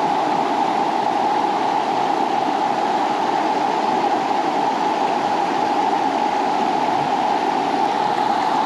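River water rushing steadily, a constant even hiss with no breaks.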